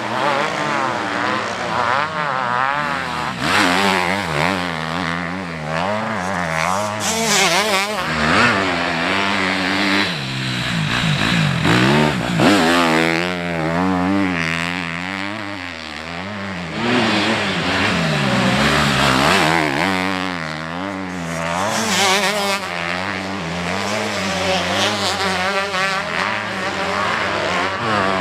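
Motocross motorcycles racing, several engines at once revving up and down as they accelerate and shift, their pitches overlapping and rising and falling throughout.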